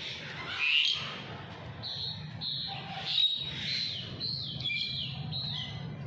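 Birds calling: a loud, high call just under a second in, then a quick series of short high chirps, each falling in pitch, over a steady low hum.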